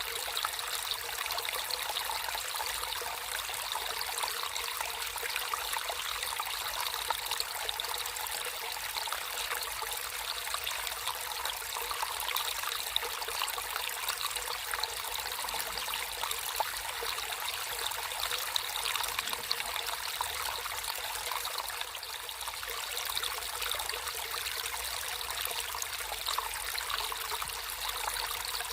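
Water trickling and burbling steadily over stones in a small natural stream.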